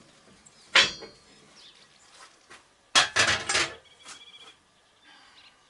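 Metal pieces being handled and knocked together, most likely steel shims and tools: one sharp clank about a second in, then a burst of rattling clinks about three seconds in, with faint ringing after.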